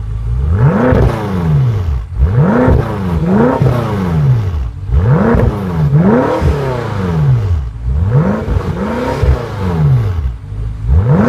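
BMW M5 (F10)'s twin-turbo V8 being revved in neutral: repeated free-revving blips, each rising and falling back within about a second, with short pauses between them.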